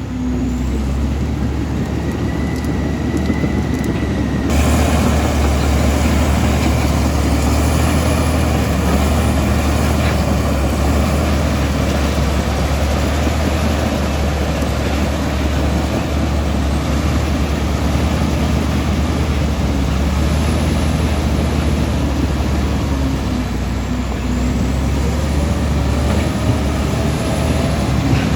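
Komatsu D65E bulldozer's diesel engine running with a steady deep rumble. It gets suddenly louder about four and a half seconds in.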